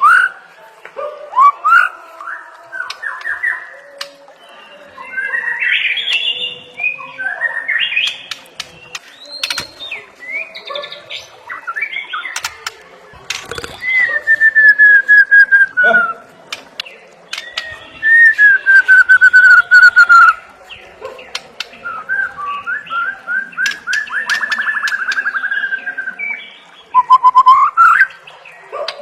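White-rumped shama (murai batu) singing a varied run of loud whistled phrases: quick rising and falling notes, two long falling whistles around the middle, and a fast trill later on.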